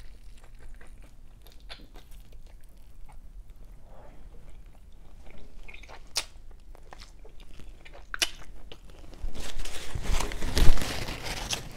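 Close-up eating sounds of a person biting and chewing a chicken drumstick: soft wet mouth clicks with a few sharp crackles of crunching, louder near the end.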